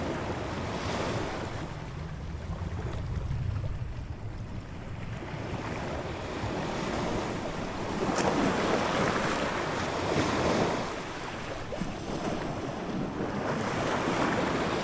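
Ocean waves breaking and washing on a shore over a low steady rumble of surf, with a larger wave swelling up about eight seconds in and another near the end.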